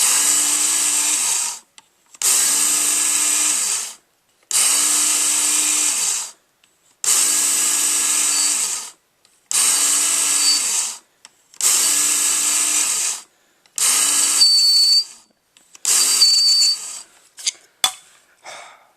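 Work Sharp electric belt knife sharpener with a 6,000-grit belt, switched on and off for about eight short runs of a second and a half to two seconds each, as the blade is passed through the guide to polish the edge. A thin high whine joins the last few runs.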